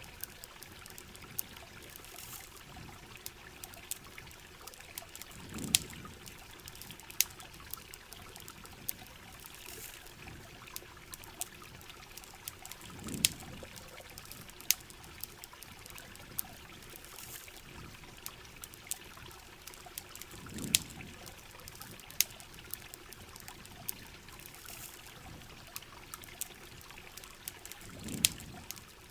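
Steady rain and trickling water with many sharp campfire crackles and pops scattered throughout, and a soft low swell about every seven seconds.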